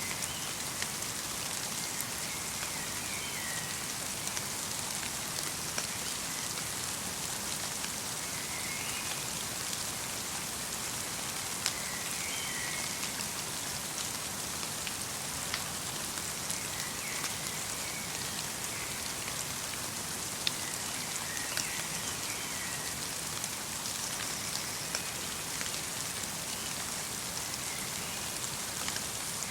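Light rain falling steadily, an even hiss with scattered sharper drips. A small bird repeats a short chirping call every three to four seconds throughout.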